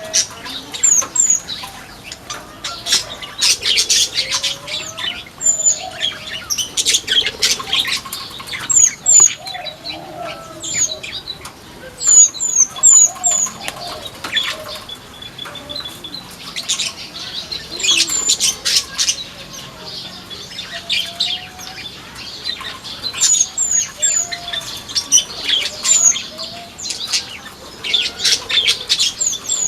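Flamboyan birds in an aviary, making many short, high, down-slurred chirps. Every few seconds there is a cluster of rustling wing flaps.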